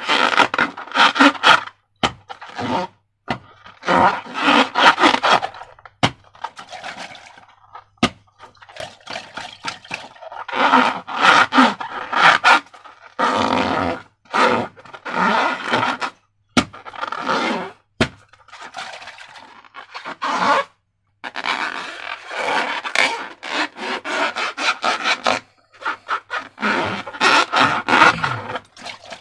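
Slime being squished and mixed by hand, sticky wet squishing in bursts of a few seconds with short pauses between them and a few sharp clicks.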